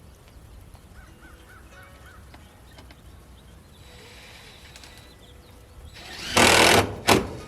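Faint bird chirps in a quiet outdoor background, then two loud, brief bursts of rustling noise near the end.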